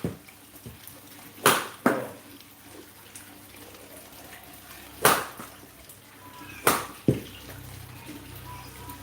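Badminton racket hitting a shuttlecock, five sharp smacks with irregular gaps, two of them in quick pairs, over a steady low hiss.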